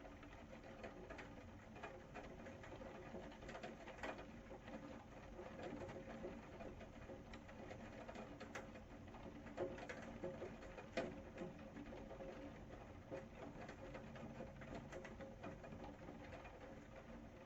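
Faint rain pattering, with scattered drips and a few louder drops.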